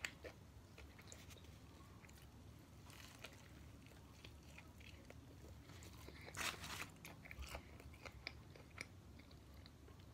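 Faint chewing and small mouth clicks of someone eating a fried chicken sandwich, with one louder crunchy bite about six seconds in.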